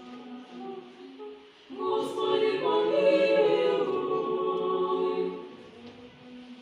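Several dogs howling together in chorus: a faint held howl, then about two seconds in many voices join in long overlapping howls for some three seconds before dropping back to a single faint howl.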